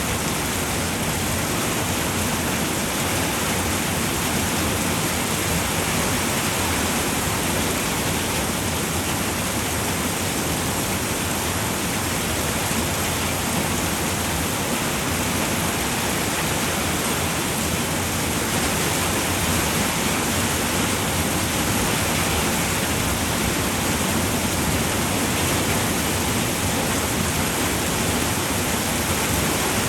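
Steady rain falling on a roof: a dense, even hiss of raindrops with no separate drops or thunder standing out.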